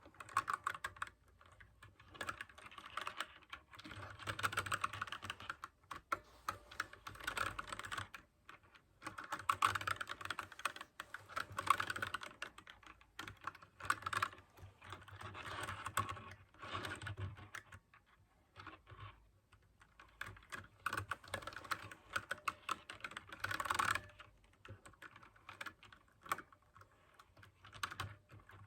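Typing on a mechanical keyboard with clicky blue switches: fast bursts of keystrokes broken by short pauses, the loudest burst near the end.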